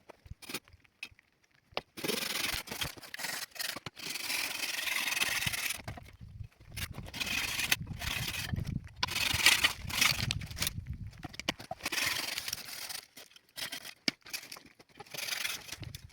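Rough scraping and rubbing noise in long, irregular spells with short breaks, starting about two seconds in after a few scattered clicks.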